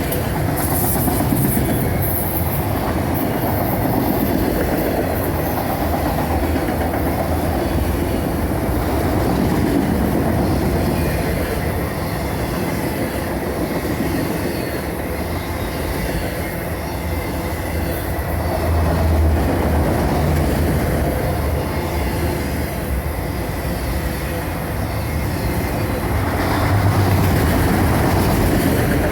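Freight train's autorack cars rolling past, a steady loud rumble of steel wheels on rail with clatter over the joints and a faint steady squeal.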